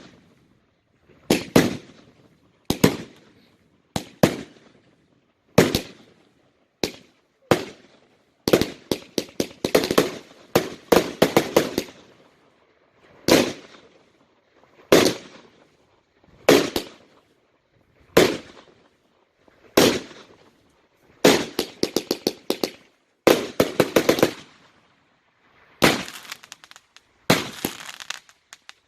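Fireworks going off in a rapid sequence: a string of sharp bangs about a second apart, with bursts of fast crackling reports in between.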